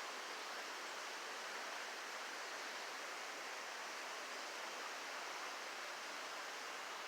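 Steady, even rush of flowing water, with no rise or fall.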